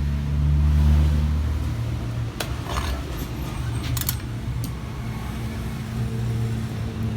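A motor vehicle's engine running close by, loudest about a second in and then settling to a steady low hum, with a few sharp clicks around three and four seconds in.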